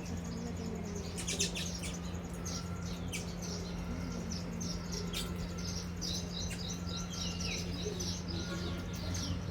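A flock of baya weavers chattering: many short, high chirps overlapping throughout, over a steady low hum.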